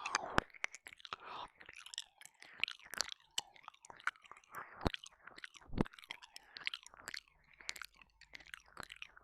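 Close-up wet mouth sounds of ear licking and ear eating on a binaural microphone: irregular tongue smacks, lip pops and slurping clicks.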